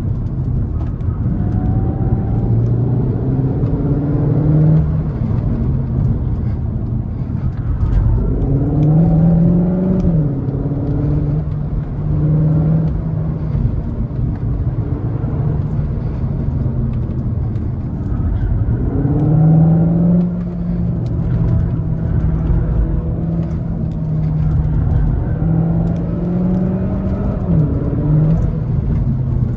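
Cupra Formentor e-Hybrid's 1.4-litre turbocharged four-cylinder petrol engine pulling hard, its pitch rising several times under acceleration and dropping back between pulls, over steady road noise.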